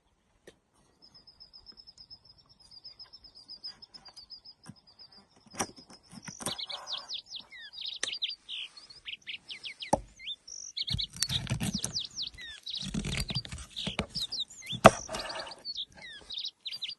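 Wild birds singing: a rapid, high, even trill for several seconds, then a dense run of quick chirps from several birds. Mixed in are a few sharp knocks and bursts of low rumbling noise in the second half.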